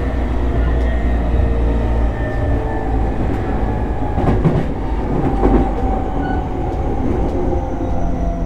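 E233 series electric train running at speed: a steady rumble of wheels on rail with the hum of the traction motors, and a few wheel knocks over rail joints around the middle. A faint high whine slowly falls in pitch near the end.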